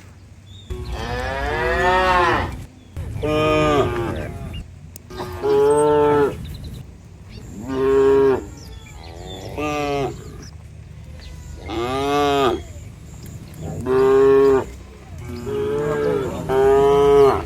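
Cattle mooing over and over, a call about every two seconds, each call rising and then falling in pitch.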